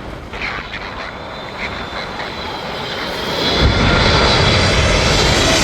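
Engines of a Boeing jet airliner passing close, the fan whine growing louder, then a loud, deep jet rumble that comes in about three and a half seconds in and holds.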